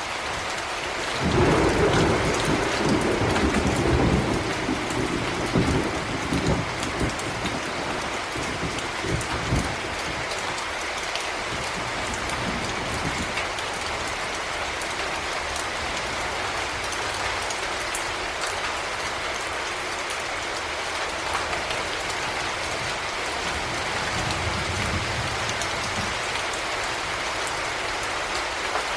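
Heavy rain falling steadily. A clap of thunder rolls in about a second and a half in and rumbles for several seconds before fading, with a fainter rumble of thunder near the end.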